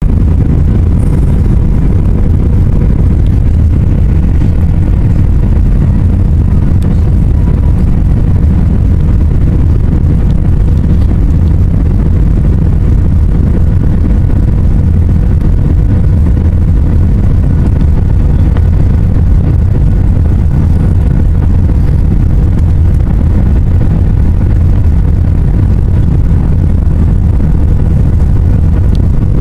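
Cabin noise inside an Airbus A320 in flight: a loud, steady low rumble of the jet engines and airflow, with a faint steady hum running through it.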